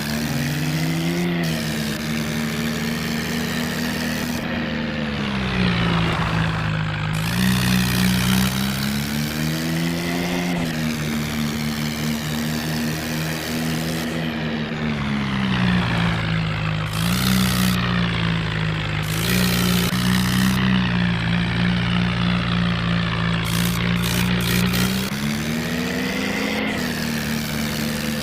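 Tractor engine sound running steadily, its pitch swelling up and settling back several times.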